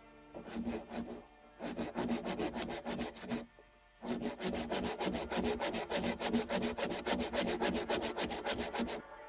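Handsaw cutting through birch wood in quick, even back-and-forth strokes. The sawing comes in three bouts with short pauses between them, and the last bout is the longest, about five seconds. This is the sawing-off of a birch burl.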